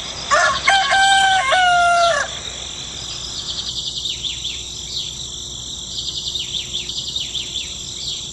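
A rooster crows once near the start, one drawn-out call falling at the end. Then rapid, repeated high bird chirps run on over a steady high insect-like hum.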